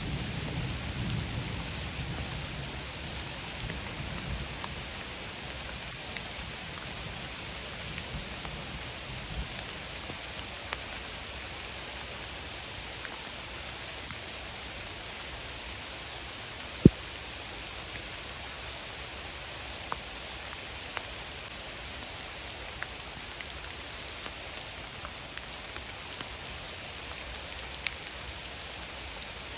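Steady rain falling, with scattered drip ticks and a low thunder rumble dying away over the first few seconds. One sharp tap about seventeen seconds in.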